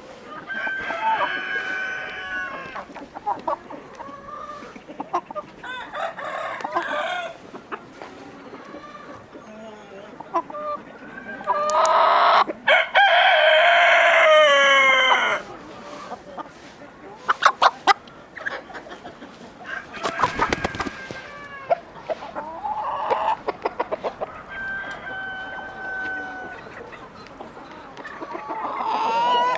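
Chickens clucking and calling, with a rooster giving one long, loud crow about halfway through that drops in pitch at its end. Scattered clicks and a brief rustling noise come between the calls.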